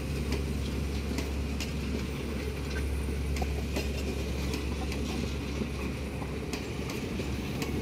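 Train coaches rolling past close by: a steady low rumble with repeated sharp clacks of the wheels on the track.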